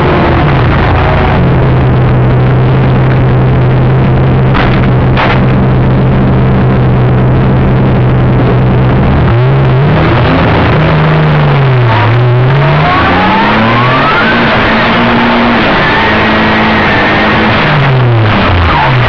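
Stroker-built V6 of a Nissan 350Z drift car heard from inside the cabin. Its note holds steady for the first half, then the revs swing up and down repeatedly as the throttle is worked, with a rushing noise underneath.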